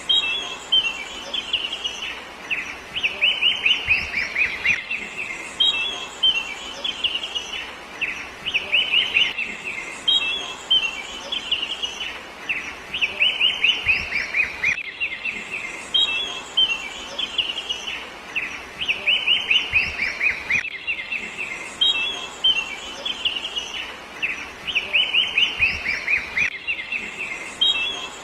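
Birdsong: rapid, high chirps in quick runs of down-slurred notes, one run after another without a break. The same sequence recurs about every six seconds, as if looped.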